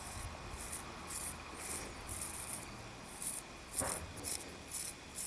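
Hand-forged straight razor scraping stubble off a lathered neck in short strokes, about two a second, with one sharper click about four seconds in. The blade pulls as it cuts: not nearly sharp enough.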